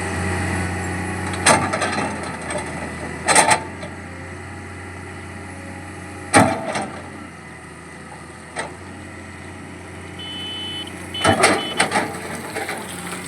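Diesel engine of digging machinery running steadily, louder for the first few seconds, with a series of sharp clanks at irregular intervals.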